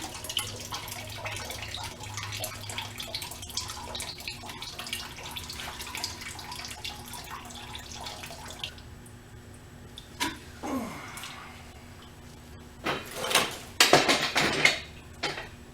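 Coolant running and splashing out of a Ducati 1098's water-pump drain hole into a catch pan as the bike is tipped over to empty it. The flow stops about nine seconds in. A few loud knocks and clatter follow near the end.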